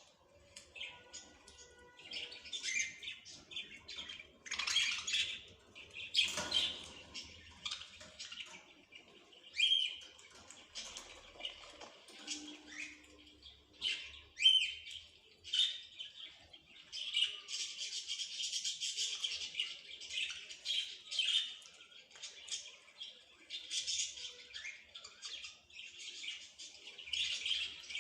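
Small birds chirping and twittering, short high calls in quick succession that thicken into a busy, continuous chatter about two-thirds of the way through.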